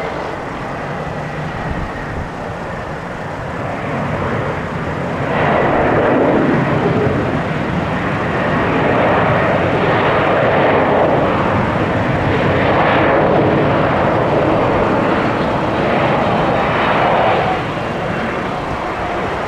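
Jet airliner engines passing close by: a steady rush that swells about five seconds in, stays loud, and eases off near the end.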